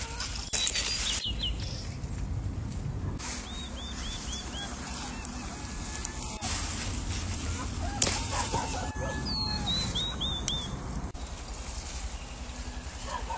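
Small birds chirping in two short runs of quick high notes, over a steady low outdoor rumble with several bursts of rustling.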